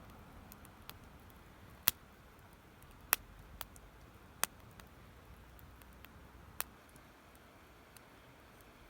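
Wood campfire crackling: irregular sharp pops, about five loud ones and a few fainter ticks, over a faint steady hiss.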